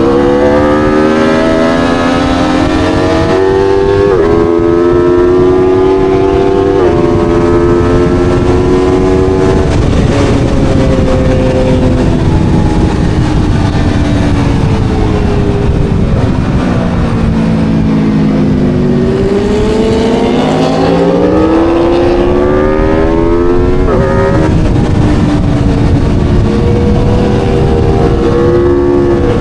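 Aprilia Tuono V4 engine at full throttle on track, its pitch climbing through the revs and dropping abruptly at each of three quick upshifts. Midway the engine note falls away as the bike slows for a corner, then climbs hard again with another upshift near the end. A constant rush of wind noise runs under the engine.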